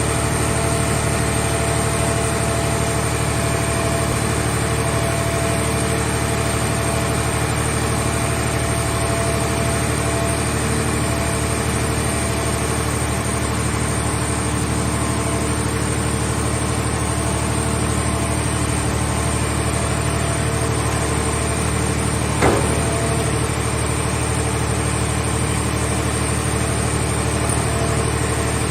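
A mobile car-body baler's engine running steadily at idle, with one short knock about 22 seconds in.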